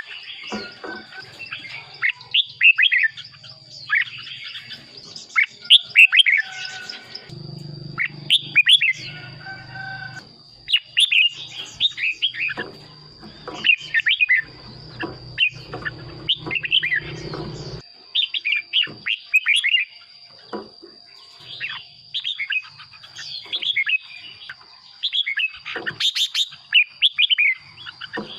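Red-whiskered bulbul singing: short, bright, warbling whistled phrases repeated every second or so, over a steady thin high-pitched tone. A low hum joins in from about a quarter of the way in to past halfway.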